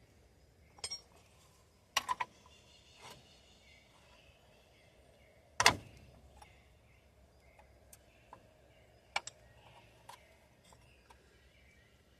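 Metal tools and brake parts clinking and knocking on a drum brake being reassembled: about six separate sharp clinks, a quick double one about two seconds in and the loudest a little before the middle.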